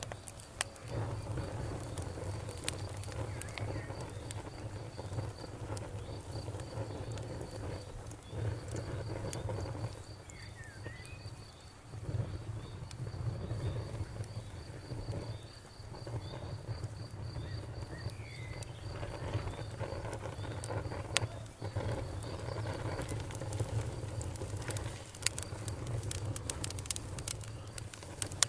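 Campfire burning with a low steady rumble and scattered crackles and pops, which come thicker near the end. Over it an insect chirps in a fast, even, high pulse, and a bird gives a short chirp twice.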